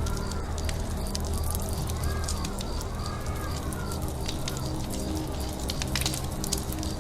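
Campfire crackling with sharp little pops, while birds call in a forest and a faint high chirp repeats about four times a second.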